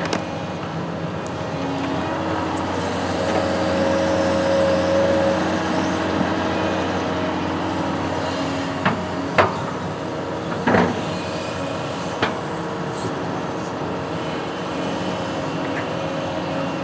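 Construction machine engine running steadily under test, with a few short knocks in the middle.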